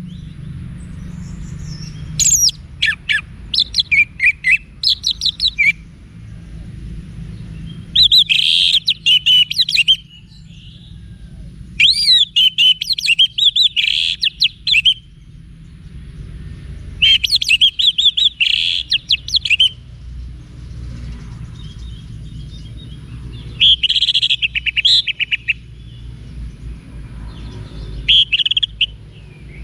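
Orange-headed thrush singing: about six loud phrases of rapid, varied, high notes, each one to three seconds long, separated by short pauses, with a steady low hum underneath.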